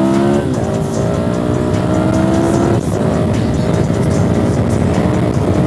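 Dirt bike engine accelerating hard through the gears: its pitch climbs and drops sharply at an upshift about half a second in and again nearly three seconds in, then holds a high, slowly rising note in fourth gear.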